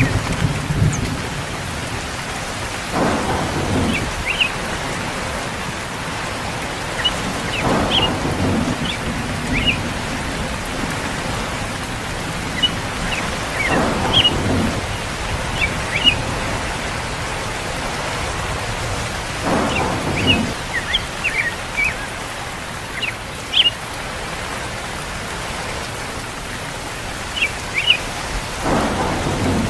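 Steady rain, with a short low rumble about every five to six seconds and scattered brief high-pitched notes.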